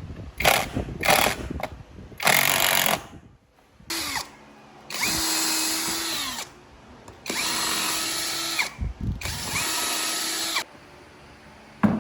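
Power drill running in bursts: three short blips, then three steady runs of about a second and a half each, the motor winding up and spinning down each time.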